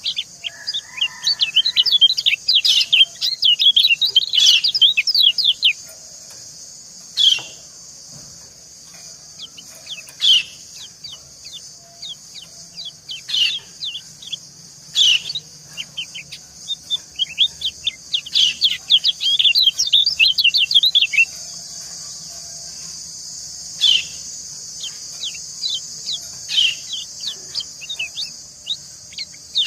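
Yellow white-eyes (kecial kuning) calling in runs of rapid, high 'ciak' chirps, in bursts with short gaps, over a steady high hiss of falling water.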